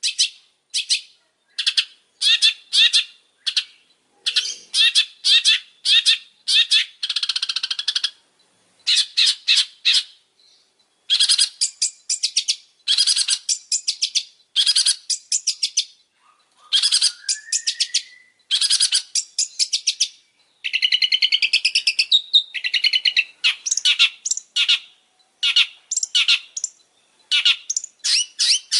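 Long-tailed shrike (pentet) singing: fast, harsh chattering phrases in short bursts with brief pauses between them. A single rising whistle comes a little past the middle.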